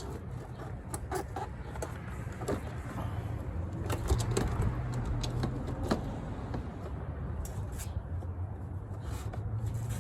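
Scattered light clicks and knocks from parts and tools being handled during engine-bay work, over a low steady rumble.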